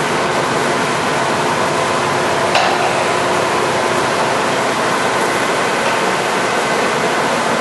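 American Pacemaker heavy-duty engine lathe running under power: a steady, even rushing noise with faint steady tones, and one sharp click about two and a half seconds in.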